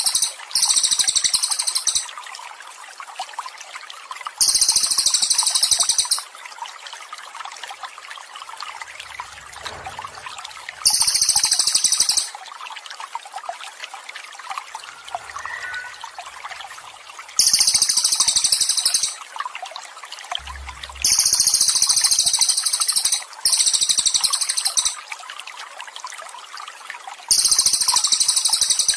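Trickling water runs steadily under a bird singing very high, trilled phrases, each lasting a second or two and repeating every few seconds.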